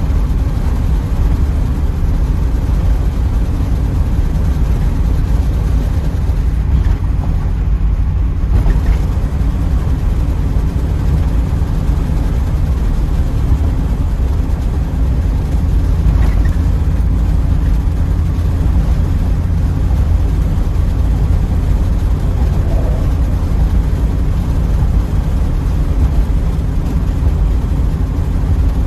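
Steady low rumble of a 1984 Pontiac Trans Am cruising, engine and road noise running evenly.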